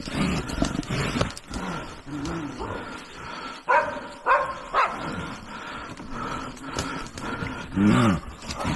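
Animal calls: three short, sharp, high-pitched calls about halfway through, then one deeper, longer call that rises and falls near the end.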